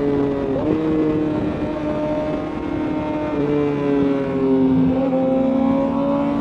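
Sport bike's inline-four engine running at road speed, heard over wind rush. The engine note steps about three seconds in, as at a gear change, then climbs slowly as the bike pulls.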